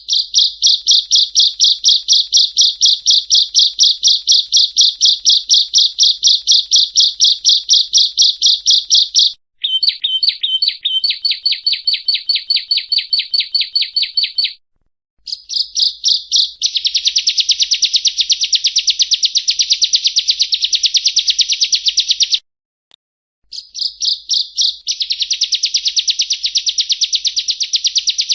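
Prenjak rowo, a prinia, singing: long runs of rapid, evenly repeated high chirping notes, in four bouts split by brief pauses, the later bouts faster and fuller.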